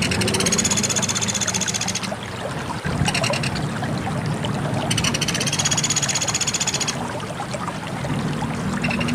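Pelatuk beras bird calling in rapid, pulsed high trills, each about two seconds long, with a shorter burst between them. A steady low noise runs underneath.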